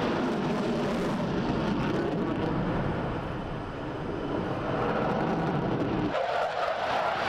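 Jet fighters in an aerobatic display, their engines making a loud, steady roar. The deep rumble drops away suddenly about six seconds in, leaving a higher, thinner jet noise.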